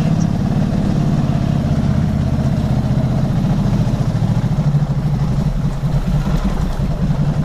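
Motorcycle engine running at a steady speed while riding, with a rumbling drone and steady road and wind noise.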